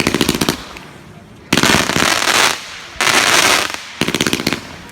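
Consumer fireworks going off: a quick string of sharp crackling pops right at the start and again about four seconds in, with two loud hissing blasts in between.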